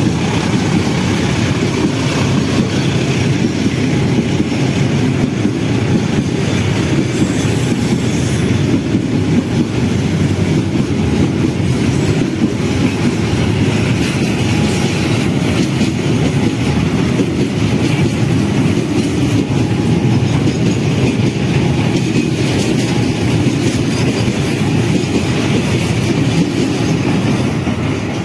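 Freight train of fuel tank wagons rolling past close by: a steady, loud rumble of steel wheels on the rails, with brief faint high wheel squeals now and then.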